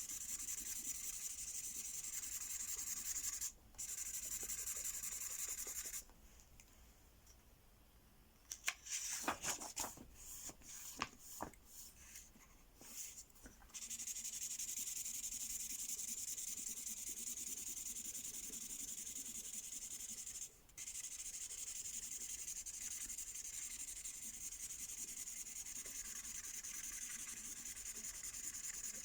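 Colour-reveal ink marker scribbling back and forth over coated paper in steady scratchy strokes. The scribbling stops for several seconds partway through, where a few sharp clicks and taps sound, then carries on.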